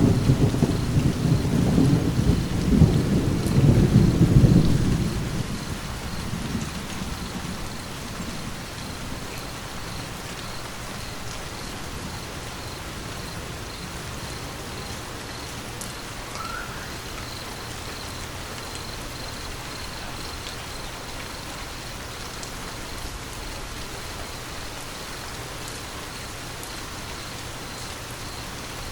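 A roll of thunder, a low crackling rumble that dies away after about six seconds, over steady rain that then goes on alone.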